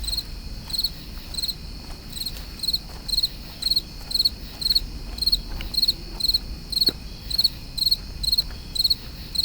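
A cricket chirping steadily: short, high, pulsed chirps repeating at an even pace of about two to three a second.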